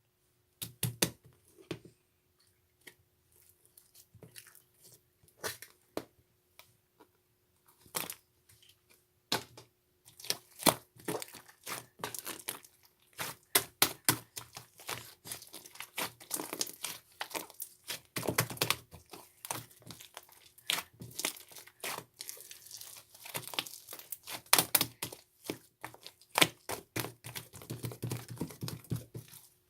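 White slime being squeezed and stretched by hand, giving sharp crackles and pops. The pops are sparse at first and turn into a dense, continuous crackling from about ten seconds in.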